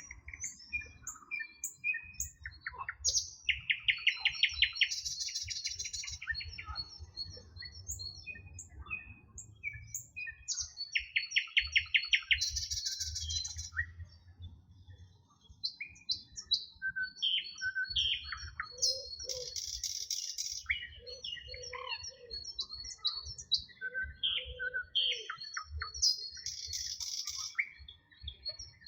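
A chorus of several songbirds singing, short chirps and whistled notes overlapping throughout. A fast, dry trill comes about four seconds in and again about eleven seconds in, and a buzzy burst recurs every several seconds, all over a low rumble.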